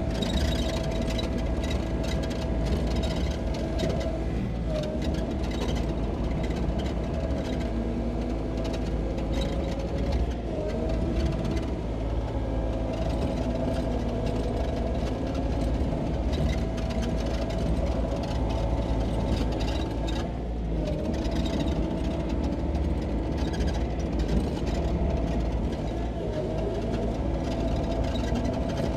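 Sany SY35U mini excavator's diesel engine running steadily under work, with a whining tone that shifts up and down in pitch and dips briefly a few times as the machine is worked.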